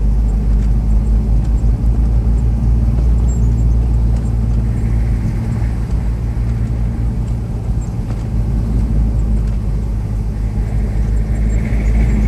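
Car driving along a road, with a steady low rumble of road and engine noise heard from inside the cabin.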